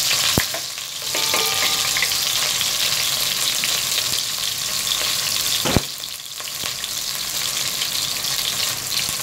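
Onions and garlic sizzling in hot oil in a pot as they are sautéed, stirred with a wooden spatula. Two sharp knocks stand out, one just after the start and one about six seconds in.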